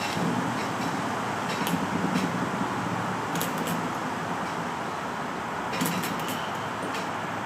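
Enjomor 6cc hit-and-miss model gasoline engine being turned over without firing: a steady mechanical whirr with a few sharp clicks. The engine is flooded.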